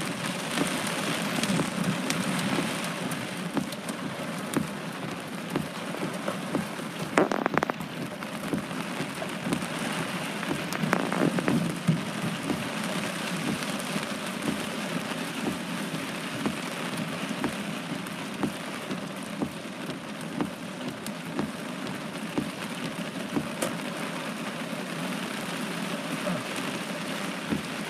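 Steady rain falling on a hard surface during a thunderstorm, a dense patter of drops, with a couple of louder knocks about 7 and 11 seconds in.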